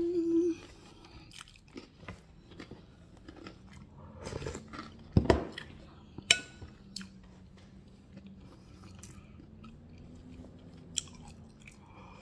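Close-up chewing and biting with crisp crunches of crackers, the sharpest crunches about five and six seconds in.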